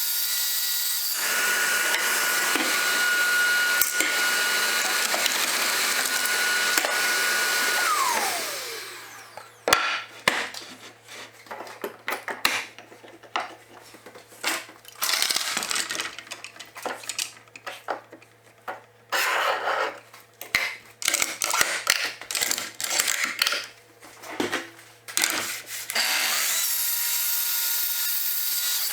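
Electric power tool running with a steady whine, then switched off and winding down about eight seconds in. Scattered knocks, clicks and short scraping noises of wood and tools being handled follow, and a power tool runs again near the end.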